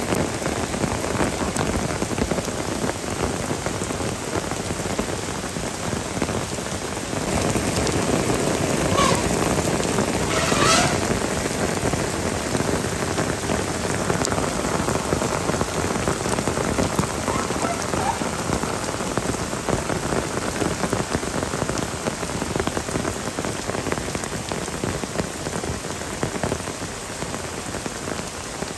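Heavy rain pouring down steadily. Two short honk-like calls cut through it about nine and eleven seconds in.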